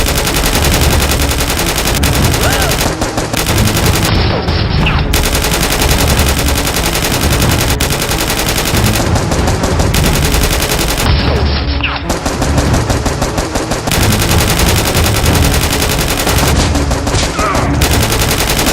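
Sustained rapid automatic gunfire, shot after shot with no real pause, as in a movie shootout sound effect.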